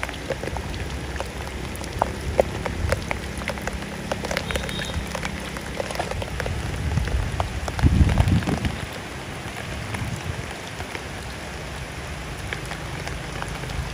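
Pouring rain falling, a dense patter of drops with a steady hiss, and a brief low rumble about eight seconds in.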